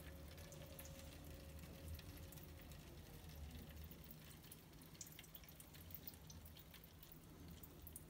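Faint water dripping from the washing machine tub's heating-element opening into a container below, a few scattered small drips over a low hum.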